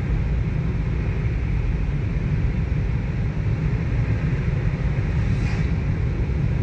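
Steady low rumble of road and engine noise from a car being driven, heard from inside the cabin.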